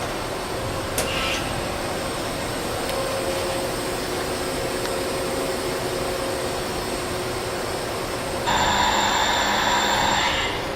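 Niigata HN80C horizontal machining center running under power with a steady mechanical hum, a click about a second in, and a louder whine with several steady tones that starts abruptly near the end, lasts about two seconds and cuts off.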